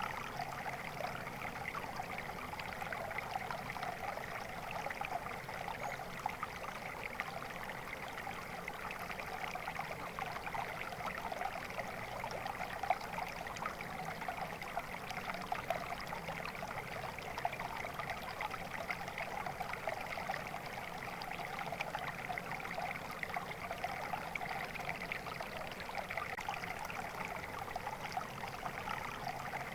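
Water flowing steadily and without a break.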